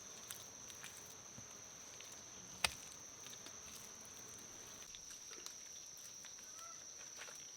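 Insects droning steadily at a high pitch, with scattered small clicks and a single sharp knock about two and a half seconds in.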